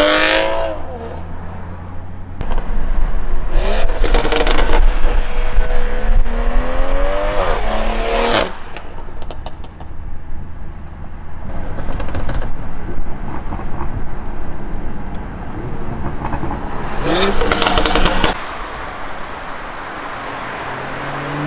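BMW M340i's turbocharged 3.0-litre inline-six accelerating hard: the engine note climbs through two pulls with a shift between them. A few sharp cracks from the exhaust follow after lifting off, then one more short burst of revs near the end.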